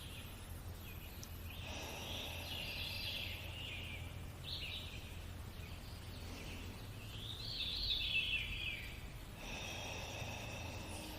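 Birds chirping over a steady low hum, with two slow, deep breaths, one a couple of seconds in and another near the end.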